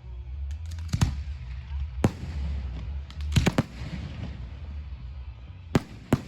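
Aerial fireworks shells bursting: sharp bangs, each with a short echoing tail. One comes about a second in, another near two seconds, a quick rattle of several reports around the middle, and two more near the end.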